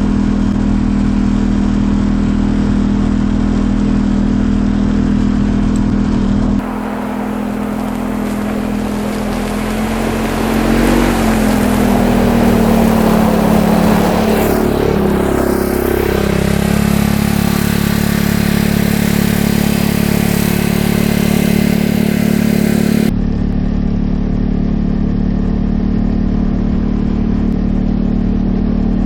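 2015 Polaris Ranger 570 UTV's single-cylinder engine running steadily, its pitch rising and dipping as it speeds up and eases off in the middle, with more ride noise while it is going fastest.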